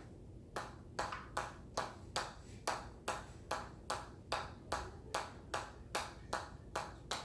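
A hammer striking in a steady rhythm, about two and a half sharp ringing hits a second, starting about half a second in.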